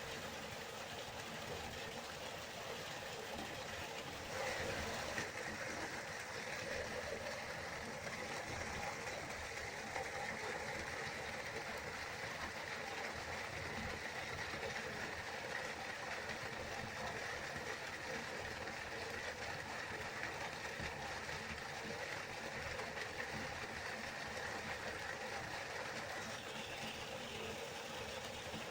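River water flowing steadily, a rushing noise that gets a little louder and brighter about four seconds in.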